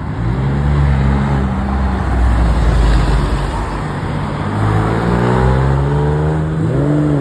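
Car engines with loud exhausts pulling away, a deep low rumble followed by an engine revving up and accelerating, its pitch rising over the last few seconds.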